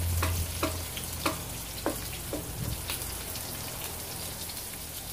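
White onion and garlic sizzling steadily in hot oil in a nonstick wok. A wooden spoon stirring them knocks against the pan about five times in the first two and a half seconds.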